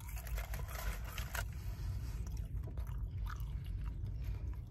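A person chewing a mouthful of crispy breaded fried chicken with the mouth open, the breading crunching in many short, sharp crackles. A steady low hum runs underneath.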